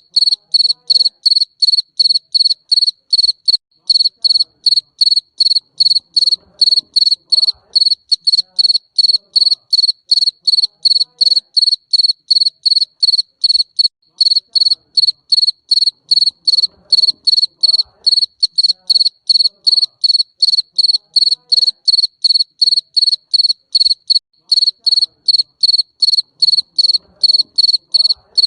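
Garden cricket chirping in a steady, even rhythm of about three loud, high-pitched chirps a second.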